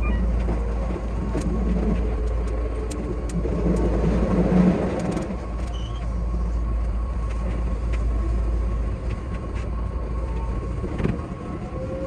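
Keihan 8000 series electric train running, heard from the front cab: a steady low rumble and hum with scattered sharp clicks from the wheels and track, swelling briefly about four to five seconds in.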